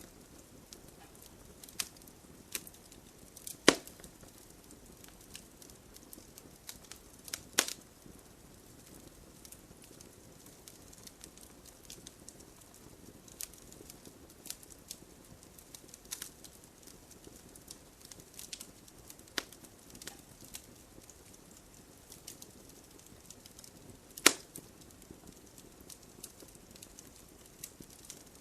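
Wood fire in a fireplace crackling: scattered small snaps and ticks over a soft hiss, with three louder sharp pops, two in the first eight seconds and one about three-quarters of the way through.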